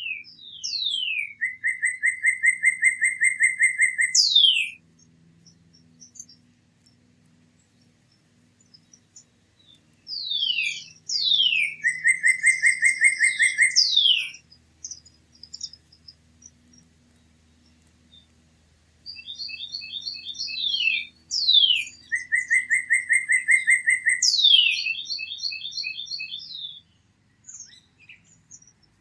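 A songbird singing three repeated song phrases, each a few falling slurred notes and then a fast even trill lasting about three seconds, with quiet pauses of several seconds between phrases. The last phrase opens with a quick series of higher chips.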